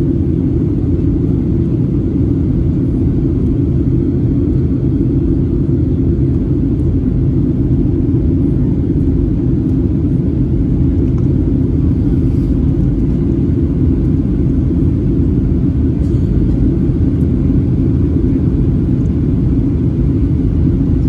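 Steady airliner cabin drone: the jet engines and airflow make an even, low rumble that does not change.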